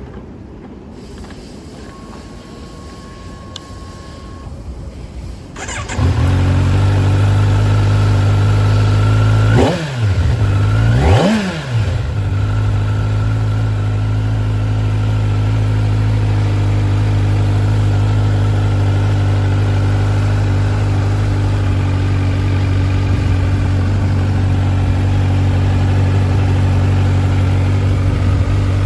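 Kawasaki Z900's inline-four engine starting about six seconds in, blipped twice soon after with quick rises and falls in revs, then idling steadily.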